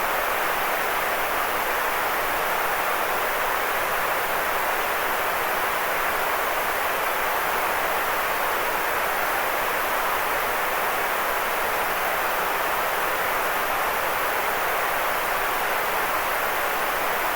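Steady white-noise sleep sound: an even, unchanging hiss with little bass.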